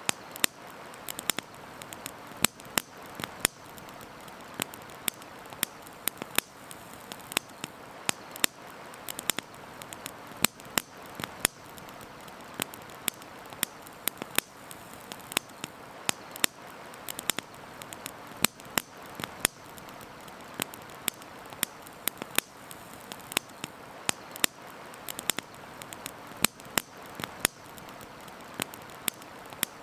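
Wood campfire crackling, with frequent sharp, irregular pops, over a steady rush of flowing river water.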